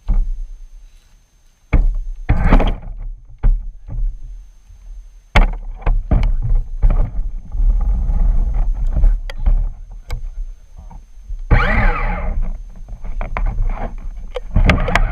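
Remote-control truck driving with the camera riding on it: bursts of motor and drivetrain noise with knocks and rattles over rough ground and low rumble on the microphone. About twelve seconds in, a whine sweeps up and down in pitch, with short pauses in the driving near the start.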